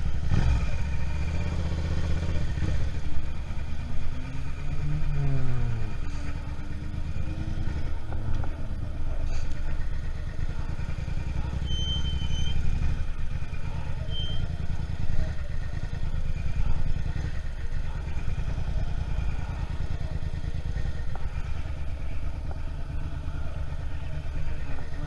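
Suzuki SV650's V-twin engine running steadily under a riding motorcycle, its pitch rising and then falling about four to six seconds in.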